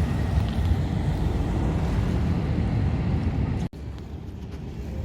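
Wind buffeting the microphone, a heavy uneven low rumble, which cuts off abruptly about three-quarters of the way in and gives way to a quieter outdoor rumble.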